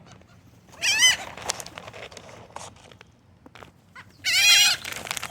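Birds calling: two loud, wavering calls, a short one about a second in and a longer one near the end, with faint taps in between.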